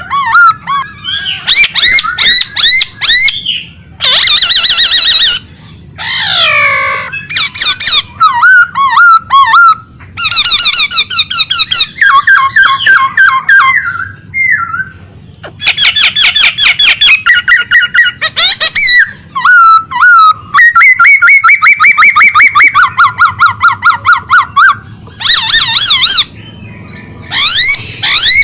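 Songbird singing loudly and continuously in a long, varied string of phrases: fast trills, rapid repeated chattering notes and sweeping whistled glides, with short pauses between phrases.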